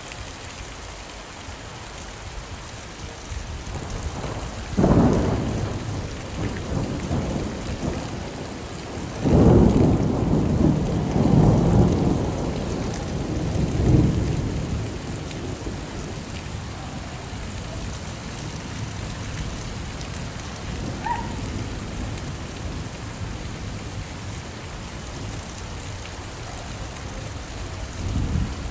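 Steady rain falling, with thunder: one rumble about five seconds in, then a longer, louder roll that lasts several seconds.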